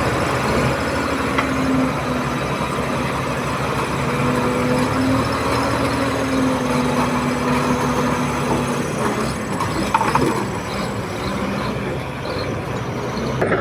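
Bulldozer's diesel engine running steadily, its pitch wavering slightly.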